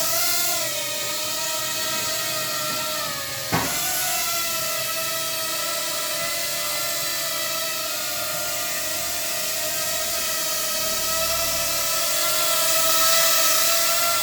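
Small electric motors of a model plane spinning their propellers, a steady high whine that wavers slightly in pitch, with a sharp click about three and a half seconds in.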